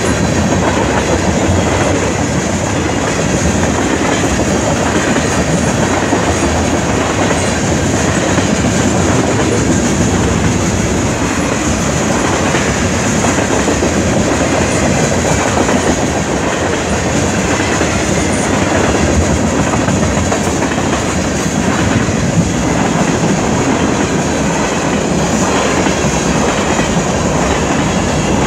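CN freight train of tank cars and boxcars rolling steadily past a level crossing, a loud, continuous rumble and rattle of wheels on rail.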